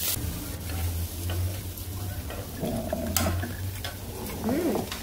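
Beef, scallops and aged kimchi sizzling in a hot pan over a low steady hum, with a few light clicks.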